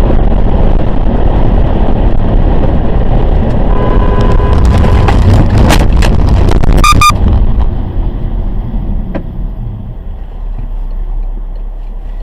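Loud, rumbling vehicle road noise. Several sharp knocks come about six to seven seconds in, after which the noise drops to a quieter, steadier rumble.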